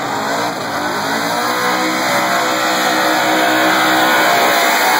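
Two muscle-car V8 engines, a second-generation Camaro Z28's among them, running loud and revving hard; the pitch shifts early on, then holds steady at high revs.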